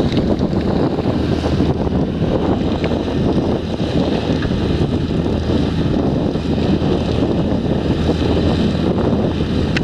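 Potato harvesting machinery running steadily, a constant low engine hum under heavy rumbling noise, with wind buffeting the microphone.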